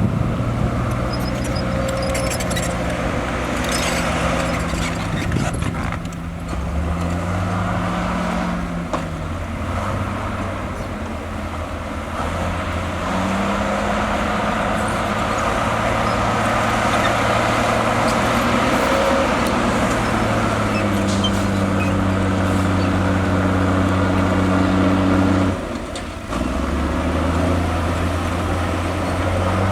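Heavy diesel engine of earthmoving machinery working, its pitch stepping up and down as the load changes. Near the end it briefly drops off, then picks up again.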